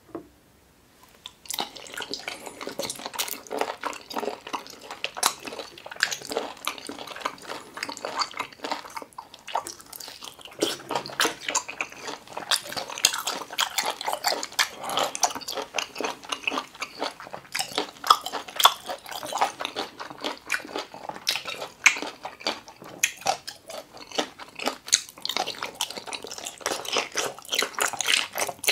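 Close-up chewing of boiled octopus tentacle: wet, squishy mouth sounds with many small irregular clicks and smacks, starting about a second and a half in.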